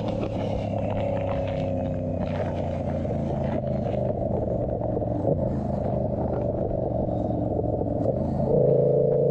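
Yamaha YZF-R7's 689 cc parallel-twin engine running through an SC-Project aftermarket exhaust while riding, a steady drone that gets louder as the throttle opens near the end.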